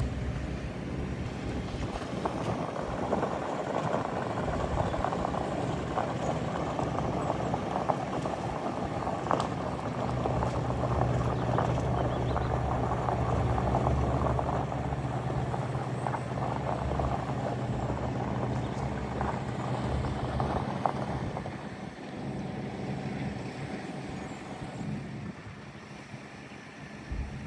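Heavy machinery engine running steadily with many small clicks over it, busier and louder for most of the stretch, then easing off and quieter for the last several seconds.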